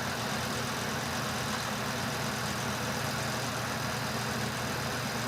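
Portable mini twin-tub washing machine running with a steady motor hum while its wash tub drains.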